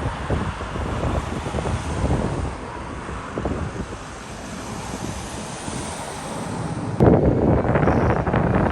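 Wind buffeting the microphone over a low engine rumble. The buffeting eases for a few seconds, then comes back suddenly louder near the end.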